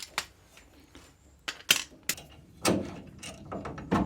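Metal hardware and hand tools clinking and knocking: a handful of sharp, irregular strikes with pauses between, the loudest about two-thirds of the way through.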